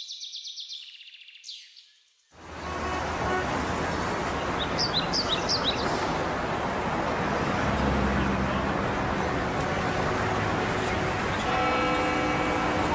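Birdsong fading away, then about two seconds in a sudden cut to a loud, steady city traffic ambience with a low rumble and a few brief bird chirps. Near the end a steady humming tone joins it.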